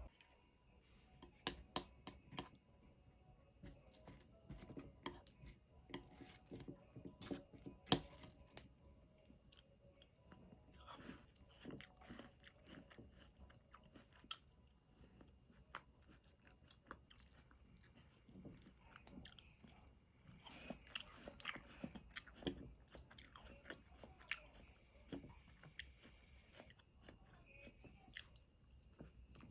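Quiet, irregular clicks and taps, with a single louder tap about eight seconds in.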